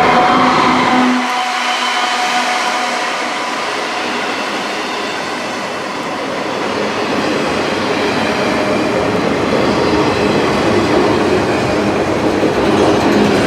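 Freight train rolling past, with steel wheels clattering and rumbling over the rail joints in a steady rush of noise. A low steady drone fades out about a second in and comes back near the end.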